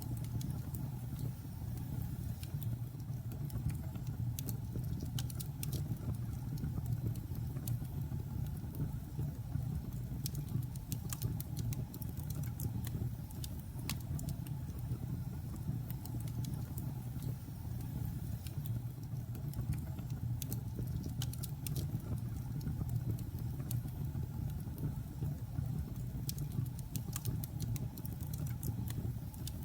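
Wood logs burning in a fireplace: a steady low rumble of the fire with irregular sharp crackles and pops from the wood, clustering in a couple of quick runs.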